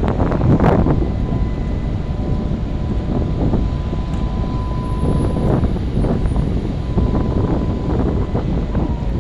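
Strong wind gusting over the microphone in surges, with a faint steady high tone running through most of it.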